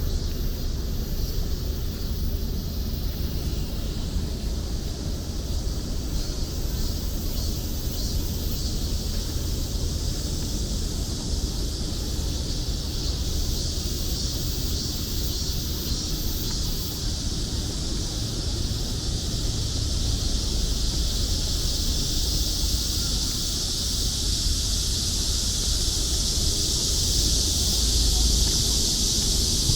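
A chorus of cicadas making a steady high-pitched drone that swells louder over the last third, over a low rumble.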